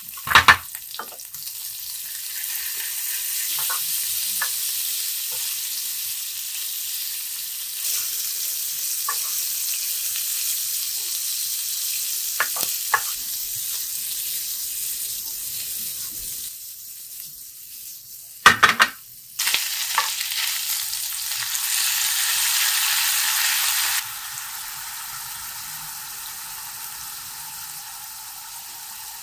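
Onion, garlic and chicken gizzards sizzling as they fry in a nonstick pan, with a wooden spatula scraping and knocking against the pan as it stirs. There is a loud clatter about two-thirds of the way through, and the sizzle gets quieter near the end.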